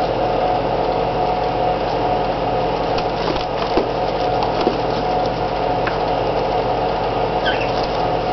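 Steady mechanical hum with a constant tone, over which come scattered light cracks and clicks, like a pet bird's beak picking at a peanut shell, and a brief faint high squeak about two thirds of the way in.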